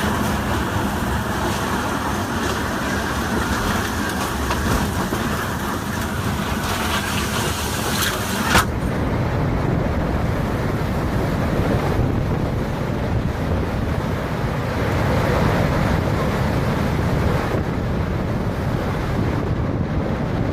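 Hurricane-force wind blowing hard across the microphone as a steady rushing noise. About eight and a half seconds in it cuts abruptly to a deeper, duller wind rumble.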